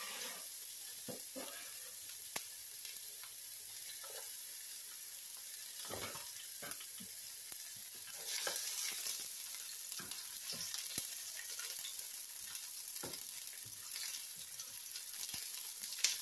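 Chopped onion sizzling as it sautés in a hot skillet: a steady frying hiss with scattered light knocks.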